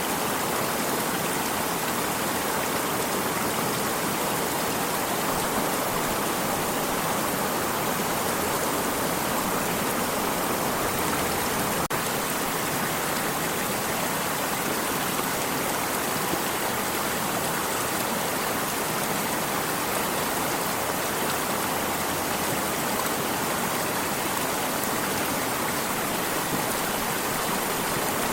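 Flowing stream water, a steady rushing and burbling that does not change.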